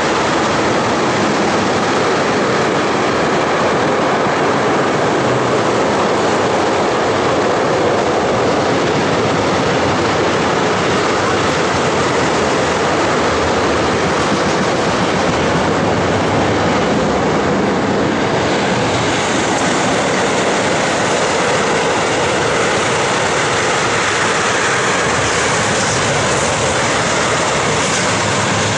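Long container freight train rolling along the track, its wagons making a steady, loud noise of wheels on rails.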